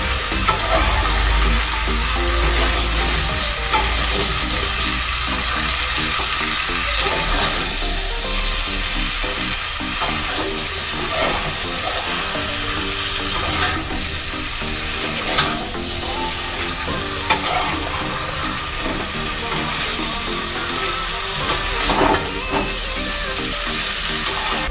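Eggplant, potato and dry fish sizzling in oil in a frying pan while a spatula stirs and scrapes them around the pan, the scrapes coming again and again over a steady sizzle.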